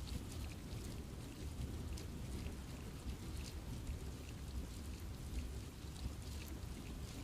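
Steady rain falling in a forest, with many separate drops ticking on leaves over a constant low rumble of rainfall.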